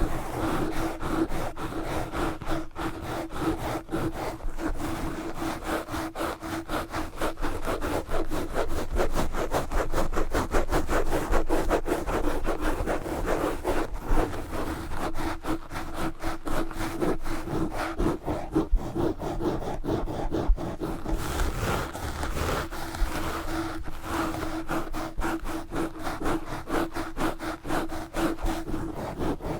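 Microphone scratched fast and aggressively with knitted yarn gloves: continuous rapid rubbing and scraping strokes, with a steady low tone underneath.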